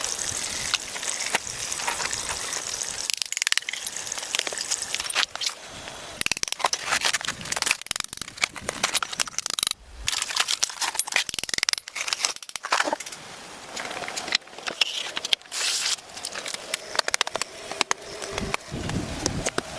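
A dense, irregular run of sharp clicks, knocks and scrapes with brief pauses, consistent with hand tools working wood.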